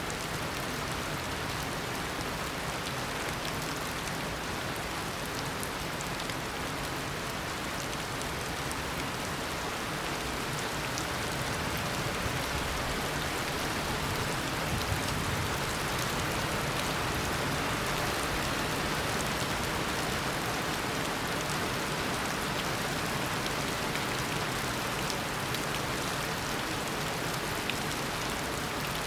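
Steady heavy tropical rain falling, a dense hiss of drops with individual drop taps, swelling slightly in the middle.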